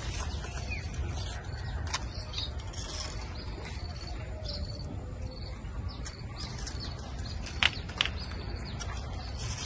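Small birds chirping faintly over a steady low rumble, with two sharp clicks in quick succession near the end.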